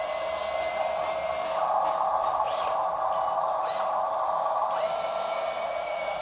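Small electric motors of toy RC dump trucks whining steadily. A higher whine glides up and holds, then changes pitch a few times as the throttle is varied.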